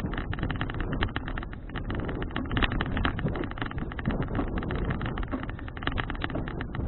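Wind buffeting an action camera's microphone while riding a bicycle: a constant rumbling noise crossed by many short crackles.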